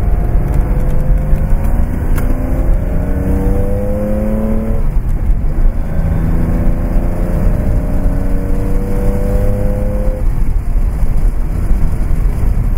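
1969 Porsche 911T's 2.0-litre air-cooled flat-six accelerating under load, heard from inside the cabin. Its note rises steadily, drops with an upshift about five seconds in, climbs again and drops with another upshift about ten seconds in, over a steady low rumble.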